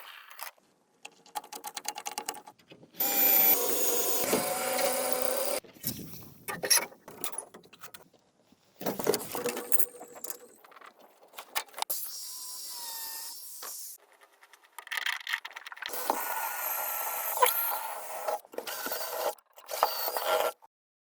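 A run of short, abruptly cut stretches of bamboo building work: a power tool running steadily in some, knocks and scraping on bamboo in others, each ending suddenly.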